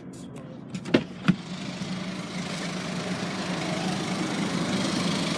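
BMW X1 xDrive18d's 2.0-litre four-cylinder turbo-diesel engine idling steadily. Two sharp clicks come about a second in, and a hiss grows gradually louder.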